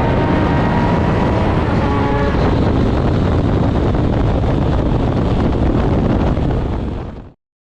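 Drag motorcycle's engine note under heavy wind rush, the engine tone dying away about two and a half seconds in and leaving a loud, steady rush. The sound cuts off suddenly near the end.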